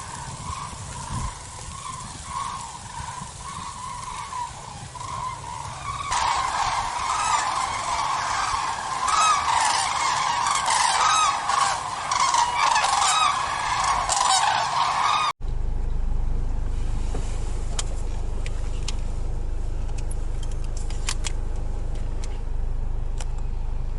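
A flock of geese honking: repeated calls that grow into a dense, louder overlapping chorus about a quarter of the way in. Two-thirds of the way through the sound cuts off suddenly to a steady low rumble with faint ticks.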